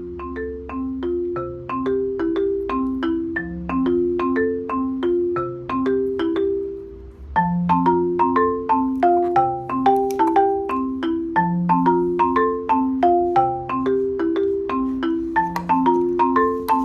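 Background music: a bright mallet-percussion tune of quick plucked-sounding notes over a bass line. It gets louder and fuller about halfway through.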